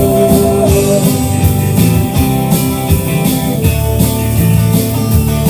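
Country-rock band playing an instrumental break: electric guitars, bass and drum kit keeping a steady beat, with no vocals.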